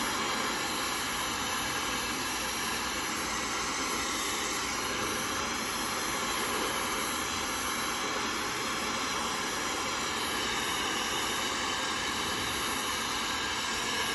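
Dyson Supersonic hair dryer running steadily, a constant rush of blown air.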